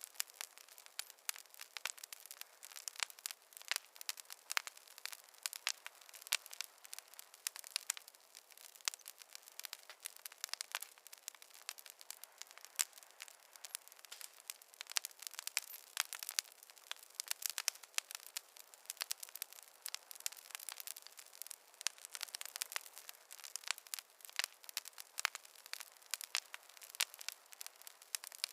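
Fireplace fire crackling: a dense, irregular stream of small pops and snaps over a light hiss, without any low rumble.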